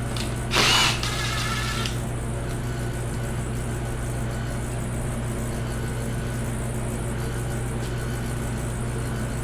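A steady low hum, with one loud, sharp metallic clack about half a second in that rings briefly before fading, typical of a hand tool knocking against the engine while sensors are being unbolted.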